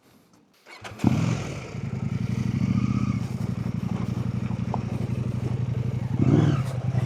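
Husqvarna Norden 901's parallel-twin engine starting about a second in, then running steadily, with a brief rise in revs near the end.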